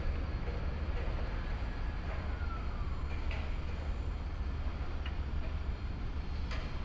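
Low, steady rumble of an approaching freight train's diesel locomotives, still some distance off, over city background noise. A short falling whistle comes about two seconds in.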